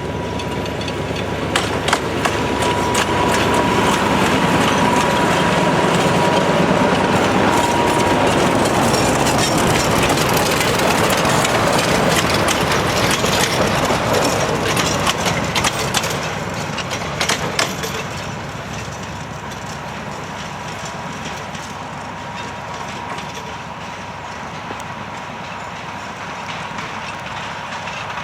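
Narrow-gauge work train hauled by TU4 diesel locomotives rolling by, its running noise building up and then fading after about two-thirds of the way through, with clicks of wheels over rail joints and a faint steady whine.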